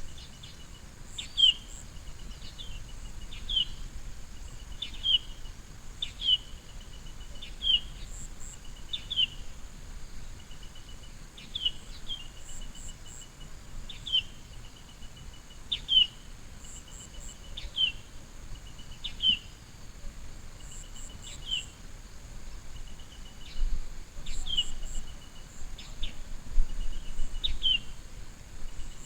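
A bird calling over and over, about once every second and a half: each call is a short rapid trill and then a sharp falling note. A steady high insect drone runs underneath.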